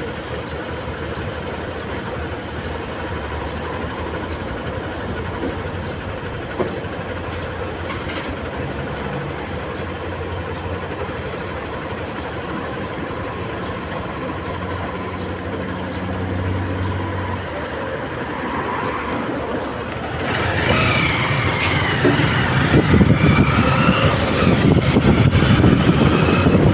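Vehicle driving along a street, with steady engine and road noise. About 20 seconds in it gets louder, with wind buffeting the microphone.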